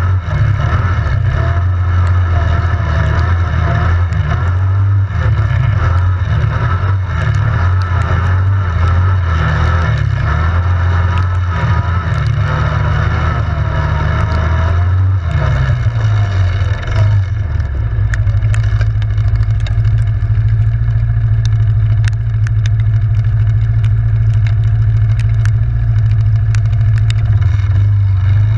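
Yamaha Grizzly 700 ATV's single-cylinder engine running with the throttle going on and off for about fifteen seconds, then settling into a steady, even note for the rest. Scattered light clicks can be heard over it in the second half.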